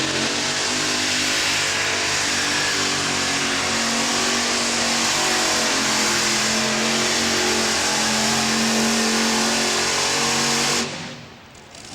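Modified pulling tractor's engines running at full power under load during a pull, a loud steady drone with a slight climb in pitch, which stops abruptly near the end.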